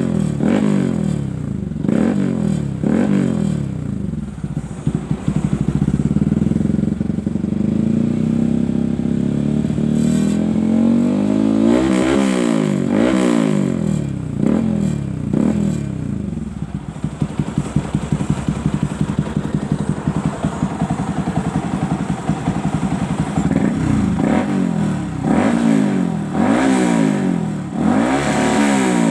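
Yamaha R15 V3's single-cylinder engine through an aftermarket CLD Monster X Series twin-silencer exhaust, revved in repeated throttle blips that rise and fall in pitch, with stretches of steadier running between.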